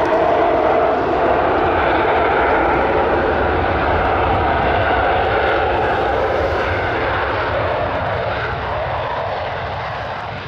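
Jet aircraft engine noise, a steady dense rush that slowly fades toward the end.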